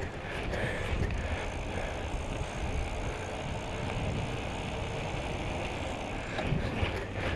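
Steady rushing noise of a bicycle ride: wind buffeting the microphone and tyres on the road, with no sudden events.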